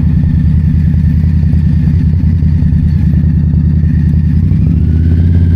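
2022 Indian Scout Bobber's V-twin engine running under way, heard from the rider's seat. The note is steady and rises a little near the end.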